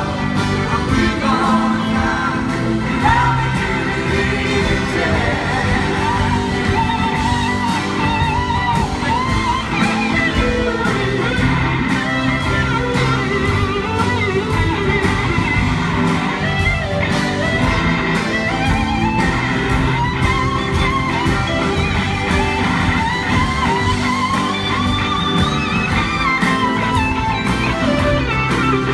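Live rock band playing, recorded from the audience, with a lead line that slides up and down in pitch over the band.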